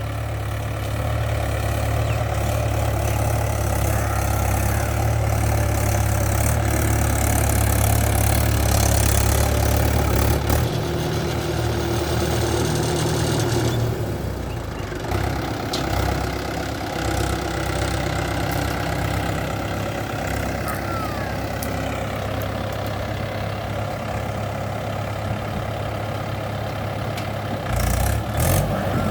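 Farm tractor engine running steadily, its note shifting about ten seconds in and again a few seconds later.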